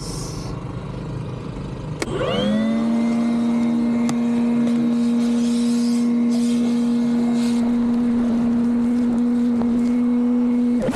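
Cordless 18-volt handheld vacuum switched on with a click about two seconds in, its motor whine rising quickly to a steady pitch and running until it stops at the very end.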